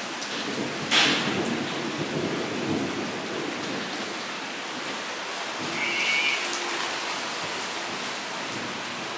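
Rain falling into a shallow puddle, a steady patter of drops on the water. About a second in there is a louder sharp hit, followed by a low rumble for a couple of seconds.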